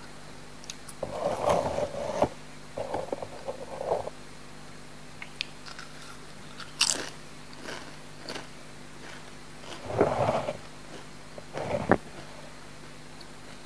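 Crisp snack chips being bitten and chewed in several separate bursts of crunching, with one sharp crack of a bite near the middle.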